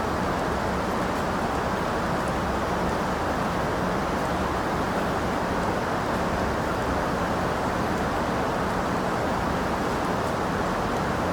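Steady rain falling, an even, unchanging rush of noise that is deep rather than bright, with a few faint ticks of drops.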